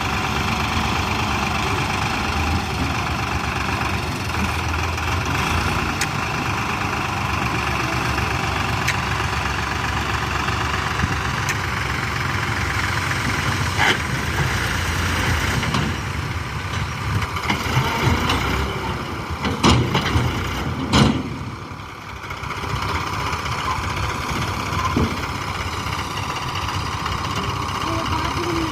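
Heavy vehicle engine running steadily, with a few sharp knocks about halfway through and again two-thirds of the way in.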